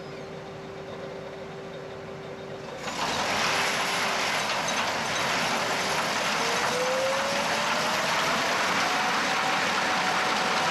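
Gleaner S67 combine running. About three seconds in it suddenly gets much louder with a full rush of machine noise, and a few seconds later a whine rises in pitch and then holds steady.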